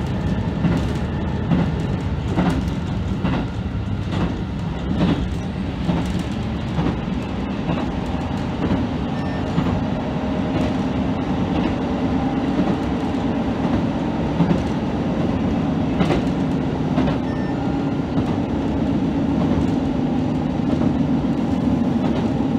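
KiHa 75 diesel railcar running at speed, heard from inside the leading car: a steady running drone with the wheels clicking over the rails now and then, the drone growing steadier about halfway through.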